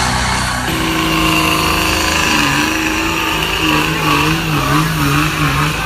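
Pulling truck's engine running hard under load. Its pitch steps up about a second in, then wavers up and down in quick swells from about two seconds in.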